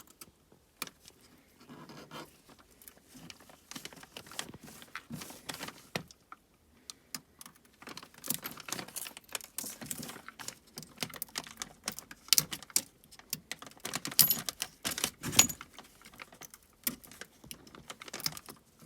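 Cracked back glass of an iPhone 11 Pro being pried and broken off the frame with a hand tool after the laser has burned through the adhesive: a steady run of irregular sharp clicks, cracks and short scrapes of small glass pieces, busier in the second half.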